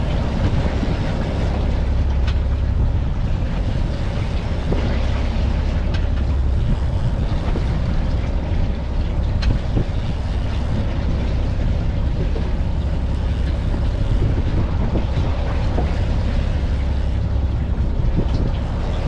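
Fishing boat running under way: a steady low engine drone with a rush of wind and water over it.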